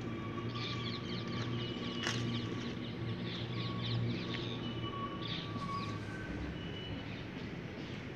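Small birds chirping faintly and repeatedly over a steady low hum.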